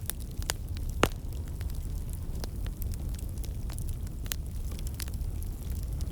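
Wood fire crackling in a fireplace: irregular sharp pops and snaps over a steady low rumble, with two louder pops at the start and about a second in.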